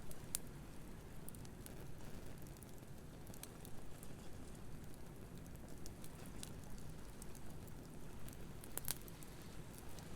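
Wood fire crackling with scattered sharp pops, the loudest just after the start and near the end, over a steady low wash of surf.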